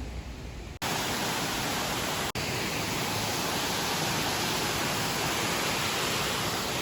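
Steady rush of water, an even hiss that cuts in abruptly about a second in after a quieter low rumble.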